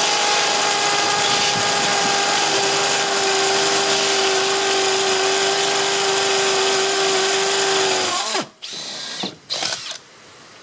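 Cordless SDS rotary hammer drilling into old concrete, the motor running at a steady pitch under the hammering. It stops about eight seconds in, followed by a few short, quieter bursts.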